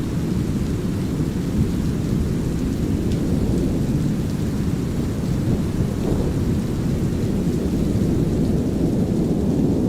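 Steady deep rumbling noise, brown noise blended with low thunder rumble, under light drizzling rain.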